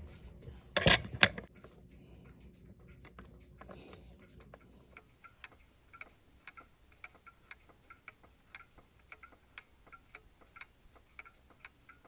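Two sharp metallic clicks about a second in, then a steady, even mechanical ticking, about two ticks a second, starting near the middle.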